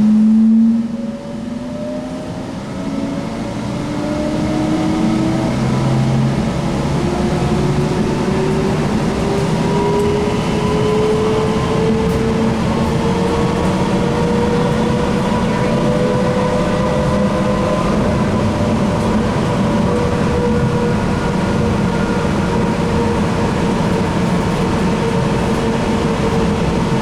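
Light rail train heard from inside the car: the electric traction motors whine with a pitch that rises steadily over about fifteen seconds as the train accelerates, then holds steady, over the rumble of the wheels on the rails.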